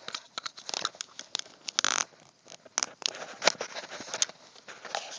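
Plastic parts of a disassembled Garmin Nuvi GPS being handled: a run of irregular small clicks and taps, with a short scrape about two seconds in.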